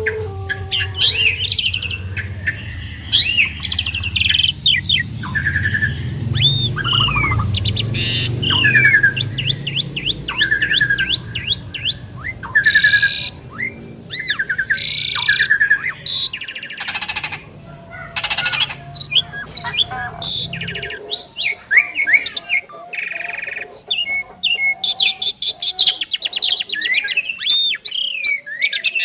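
Asian pied starlings (jalak suren) singing a long, varied song of whistled glides, rapid trills and harsh rasping notes. A low rumble sits underneath and stops about two-thirds of the way through.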